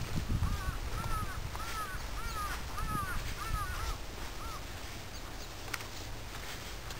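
A bird giving a string of about seven short, arched calls, one roughly every half second, which stop about four and a half seconds in.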